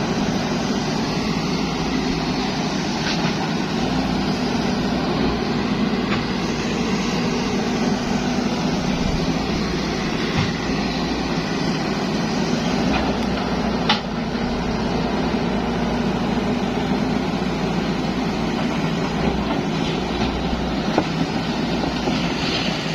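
Zoomlion excavator's diesel engine running steadily under work, with a few light clicks and one sharp knock about 14 seconds in.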